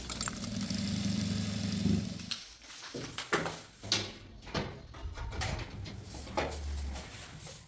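Electric sewing machine motor running in two stretches, about two seconds each, with clicks and knocks in between.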